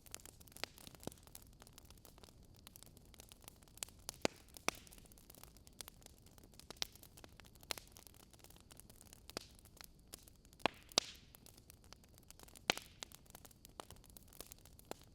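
Faint crackling of a wood fire in a fireplace, with irregular small pops and snaps over a low hiss.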